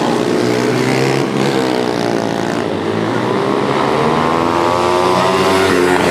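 Several pit bike engines revving hard at once, their pitch rising and falling as the bikes accelerate and back off.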